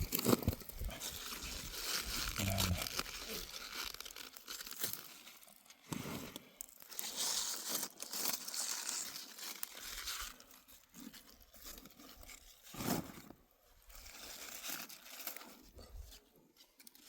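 Irregular rustling and crunching with bursts of tearing, close by: something being handled and torn.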